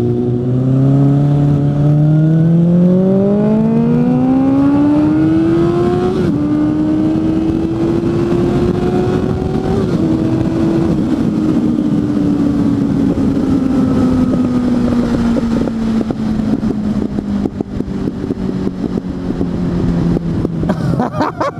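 Suzuki GSF 600 N's inline-four running through an aftermarket exhaust while riding. The engine note rises steadily under acceleration for about six seconds, shifts up, then slowly falls as the throttle is rolled off.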